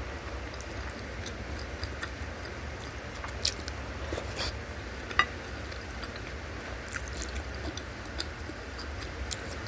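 Close-miked eating of bakso meatball soup with beef tendon and fat: soft wet chewing and mouth sounds with scattered small clicks, and a sharper click about five seconds in.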